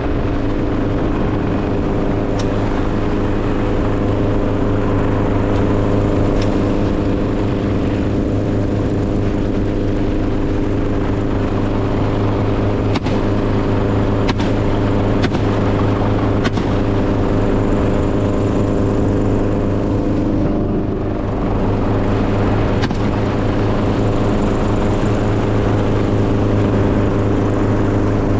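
An engine running steadily at constant speed, with a few sharp clicks or knocks scattered over it.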